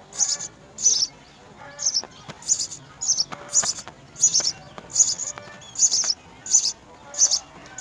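House sparrow chirping over and over: a steady series of short, high chirps, about one every half to three-quarters of a second.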